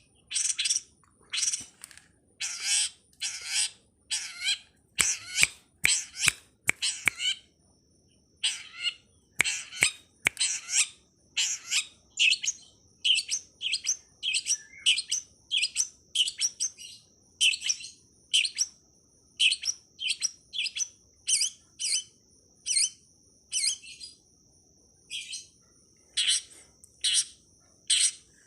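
Long-tailed shrike calls: short, harsh chirps repeated about one to two a second, with a steady high-pitched ringing tone underneath from about a third of the way in.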